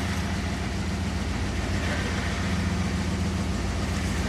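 Engine of a modified four-wheel-drive competition truck running steadily at low revs.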